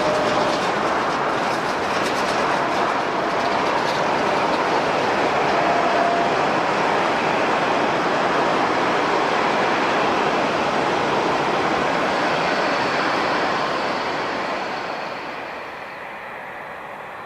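Jet airliner's engines running loud and steady with a faint high whine, then fading away near the end.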